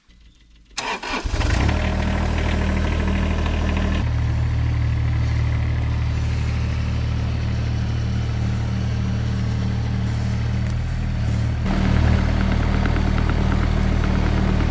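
Mini excavator's diesel engine comes in abruptly about a second in and then runs steadily, with a change in its note around four seconds in and again near the end, as the machine works.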